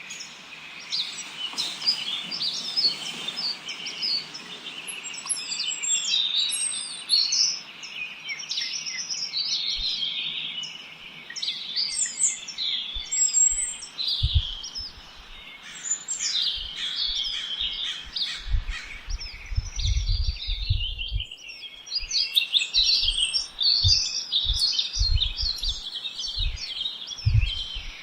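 A dense chorus of many small birds chirping and singing at once, short high calls and trills overlapping without pause. From about ten seconds in, low rumbling bursts come and go underneath, heaviest around twenty seconds in.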